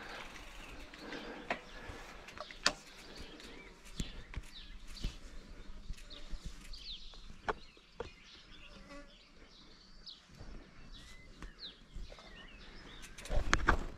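Birds chirping, short scattered calls, mixed with light clicks and ticks close by. A louder rustle comes near the end.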